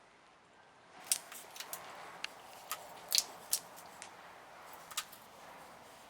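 A string of irregular light clicks and taps, about a dozen, from small hard objects being handled, over a faint hiss. They start about a second in and are loudest around three seconds.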